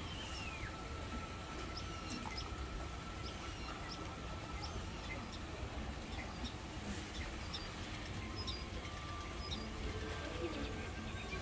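Small birds chirping: short high chirps about once a second, over a steady low rumble of background noise.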